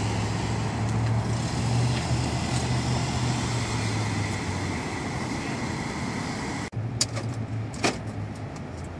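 A motor running steadily with a low hum and hiss, cut off abruptly about two-thirds of the way in, followed by a few sharp clicks and rattles.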